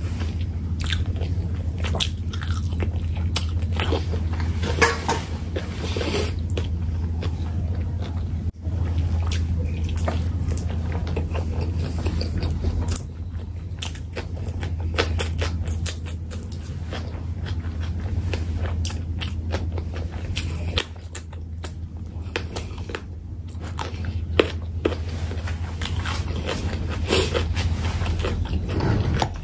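Close-miked eating sounds: wet chewing, lip smacking and biting as rice and curry are eaten by hand, in many short irregular clicks. A steady low hum runs underneath.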